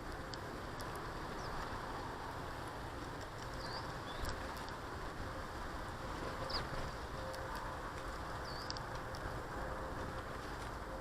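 Small garden birds giving about five short, faint chirps over a steady background hiss, with a couple of light taps.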